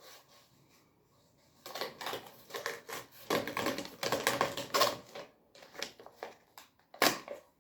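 Sheet of paper being handled: a rapid run of crackling and rustling that starts about two seconds in and goes on until near the end.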